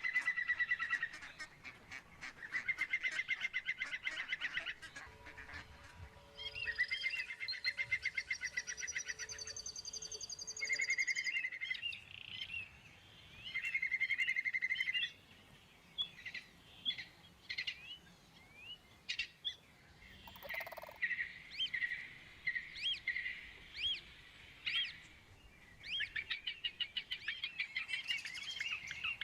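Birds chirping and trilling: several runs of rapid trills, each a second or two long, then many short separate chirps.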